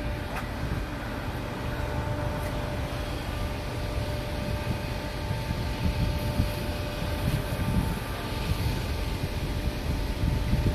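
Steady low rumble of a running vehicle with a faint steady whine over it.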